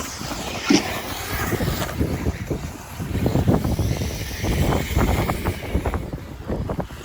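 Radio-controlled cars running on a bash track, with wind rumbling unevenly on the microphone and a sharp knock about a second in.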